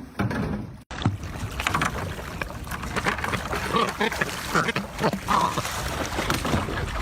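Wind and water noise aboard a small fishing boat, with many small splashes and knocks. The sound drops out for an instant about a second in, then comes back just as busy.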